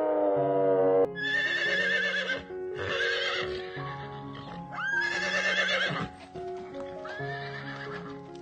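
Horse whinnying four times, each a quavering high call, over background music with a steady melody. A long pitched animal call from before dies away about a second in.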